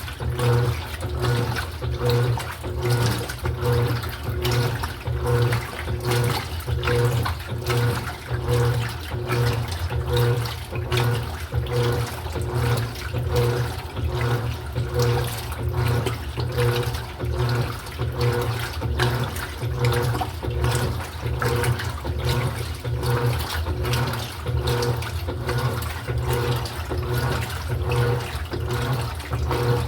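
Electrolux LED14 top-loading washing machine washing: water churning in the tub over the motor's hum, pulsing a little under twice a second as the agitator swings back and forth.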